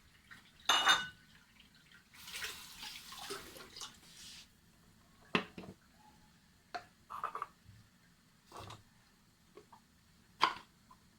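Kitchen pots and utensils being handled: a ringing metal clink about a second in, then about two seconds of hissing noise, followed by scattered light knocks and clicks, with one sharper knock near the end.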